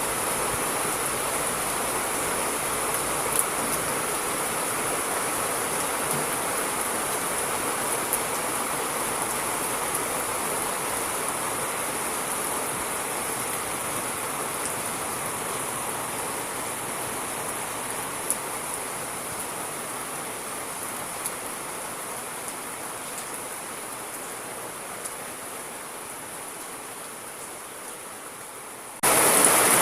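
Steady rain, an even hiss with scattered faint drop ticks, slowly fading, then cutting back in abruptly louder about a second before the end, as at a loop splice.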